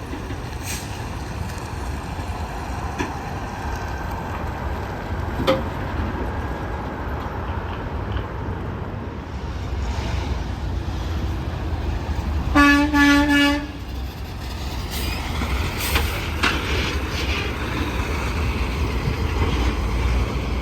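Steady rumble of heavy highway traffic as trucks pass. About halfway through, a semi truck's air horn sounds one blast of about a second, broken into a couple of quick pulses.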